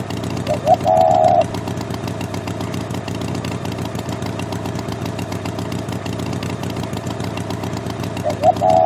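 An engine running steadily, with a short wavering tone about a second in and again near the end.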